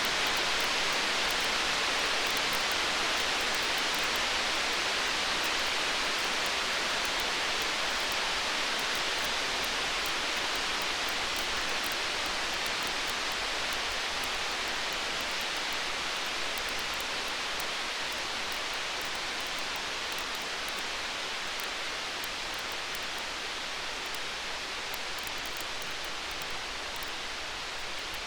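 Storm-night ambience: a steady, even hiss like rain, with faint small crackles of a campfire, slowly getting quieter.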